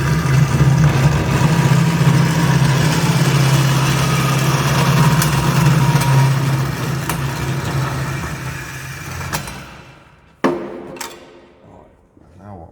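Electric metal-cutting saw running through steel exhaust pipe, a loud steady motor hum with a grinding edge, then winding down about nine seconds in. A sharp metallic knock follows, then a few light clinks of the cut pipe being handled.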